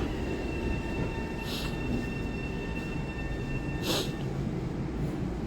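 Electric commuter train at a station platform: a steady low rumble with high whining tones from its motors that hold steady and cut off about four seconds in. Two short hisses of air come about a second and a half and about four seconds in.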